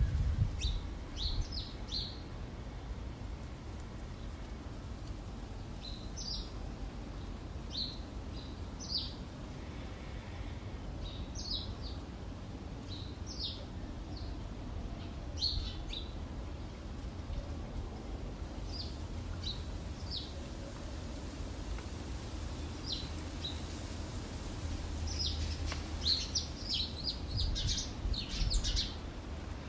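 Small birds chirping in short, high calls, scattered through and busiest near the end, over a low steady background rumble.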